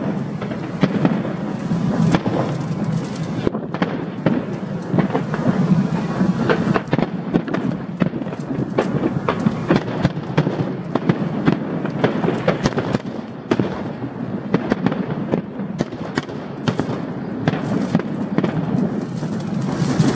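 Aerial fireworks going off in a dense, continuous barrage: many sharp bangs and crackles in quick, irregular succession over a steady rumble.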